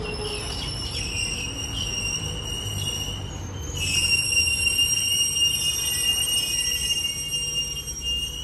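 Alstom X'Trapolis electric suburban train braking to a stop at a platform, giving a high-pitched steady squeal over a low rumble. The squeal gets louder about halfway through.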